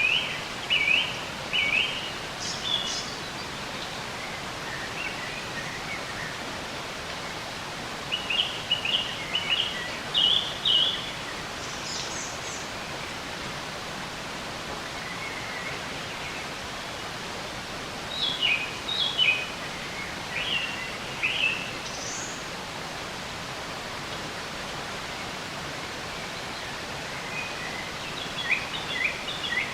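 Songbirds chirping in short clusters of quick, repeated notes every few seconds over a steady background hiss.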